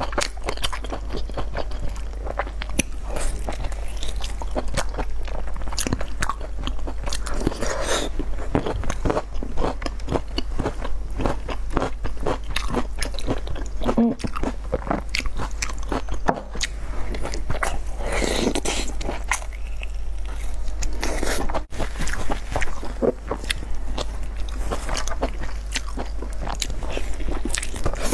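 Close-miked mukbang eating sounds: biting and chewing of soft, sauce-dipped meat as a dense run of small mouth clicks, over a steady low hum.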